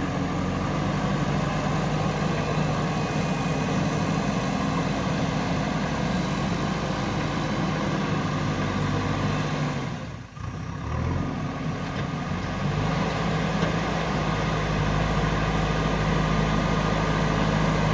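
Diesel engine of a JCB 3DX backhoe loader running steadily, with a brief drop in level about ten seconds in before it carries on.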